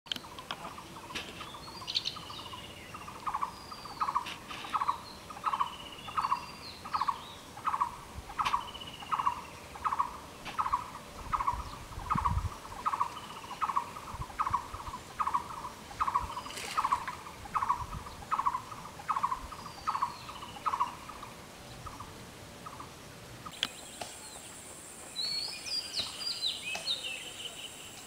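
Birds calling. One note repeats evenly, about three times every two seconds, with scattered higher chirps over it, and stops a few seconds before the end. Near the end a run of quick high chirps comes in.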